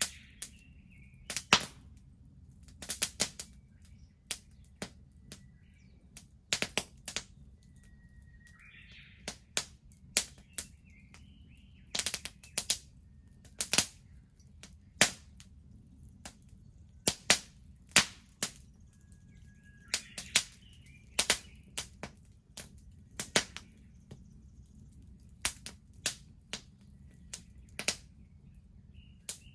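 Wood bonfire crackling, with sharp pops at irregular intervals, some in quick clusters. A bird chirps briefly now and then in the background.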